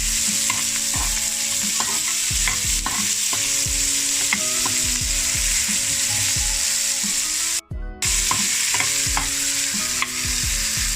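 Diced onion, red pepper and carrot sizzling in a little hot oil in a frying pan as they are stir-fried, with a utensil repeatedly knocking and scraping the pan. The sound cuts out for a moment about two thirds of the way through.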